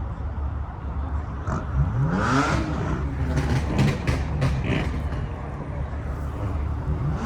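Car engine idling with a low rumble, revving once about two seconds in, the pitch sweeping up quickly, followed by several short sharp sounds.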